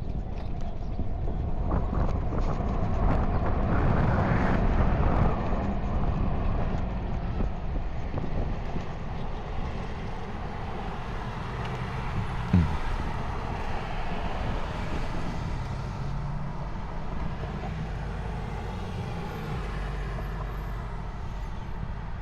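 Steady vehicle and street-traffic noise with low rumble around the riding electric motorcycle, a little louder in the first few seconds, with one brief knock about halfway through.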